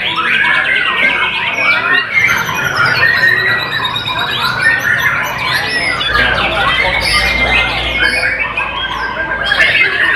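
White-rumped shama (murai batu) singing without pause: a dense run of clear whistles and notes gliding up and down in quick succession.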